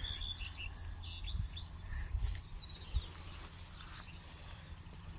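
Small birds giving short, high chirps, scattered through, over a low rumble.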